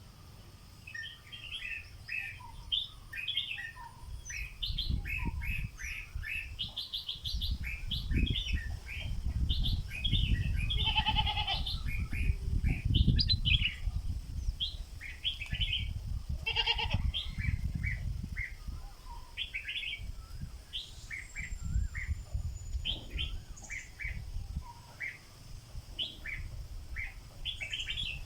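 Stripe-throated bulbul calling and singing, a long run of short, quick chirping notes, thickest in the middle. A strong low rumble sits under it.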